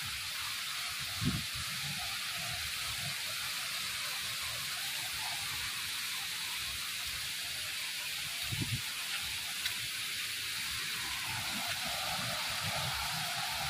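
Waterfall's falling water rushing steadily as a high hiss, growing a little fuller about eleven seconds in. A few faint low knocks sound under it.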